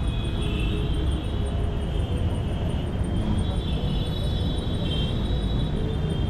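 Royal Enfield Continental GT 650's parallel-twin engine and exhaust running steadily while riding, under a dense rumble of road and wind noise.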